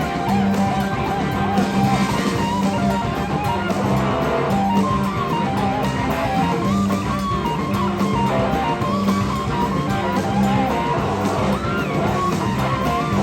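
Electric slide guitar soloing live over a full rock-blues band, the lead line gliding and wavering in pitch above a steady bass line.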